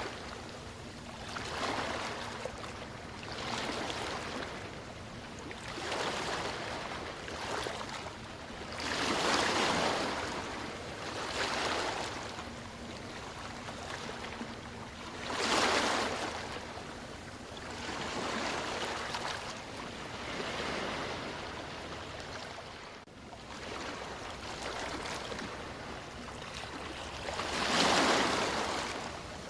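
Sea waves washing ashore: a surge of surf noise that swells and falls away every few seconds.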